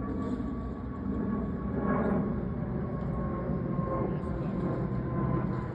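Jet airliner's engines: a steady low rumble with a faint steady whine over it.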